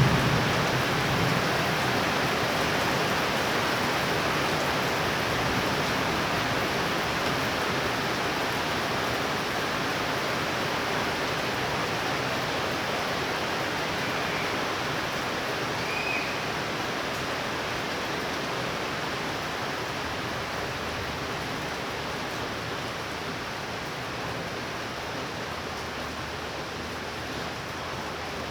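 Heavy rain pouring steadily, a dense even hiss that eases slowly; the tail of a low thunder rumble dies away in the first second or two. Two faint short chirps sound about halfway through.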